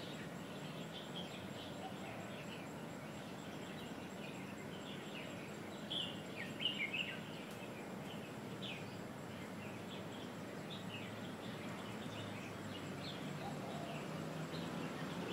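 Birds chirping now and then in the tree canopy over a steady background hum, with a louder run of calls about six to seven seconds in.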